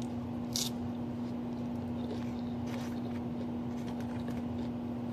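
Close-up chewing of salad: soft wet crunches and mouth clicks, the sharpest about half a second in, over a steady low electrical hum.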